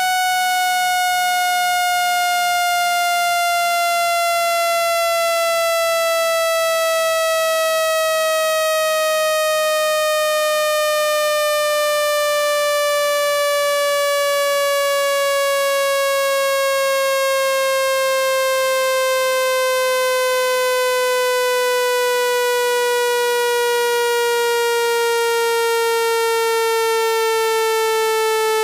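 Electronic speaker-cleaning tone, the kind played to drive water out of a phone speaker. It is a steady, buzzy tone full of overtones that glides slowly and evenly downward in pitch.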